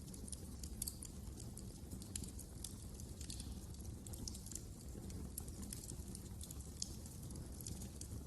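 Wood fire crackling: irregular small snaps and pops over a low, steady rumble of the flames.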